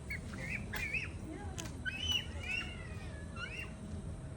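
A run of short, high bird chirps, each rising and falling in pitch, several in quick succession, over a faint steady hum.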